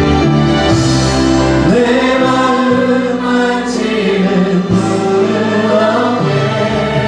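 Worship music: a choir or congregation singing a praise song over instrumental accompaniment with a steady bass line.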